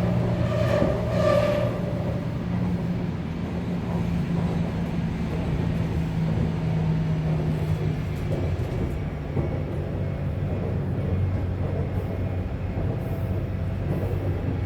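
Subway train running, heard from inside the car: a steady low motor hum with rail and wheel noise. A brief higher tone rings in the first couple of seconds, and the hum drops in pitch about eight seconds in.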